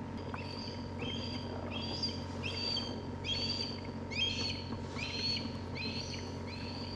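A bird calling from the wooded shore: a steady series of about ten short, clear, high notes, a bit more than one a second.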